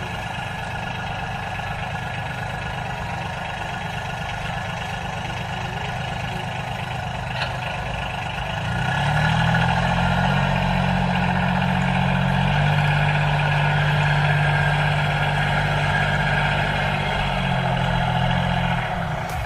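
A motor running steadily. About nine seconds in it gets louder and its hum steps up in pitch, holds there, then drops back near the end.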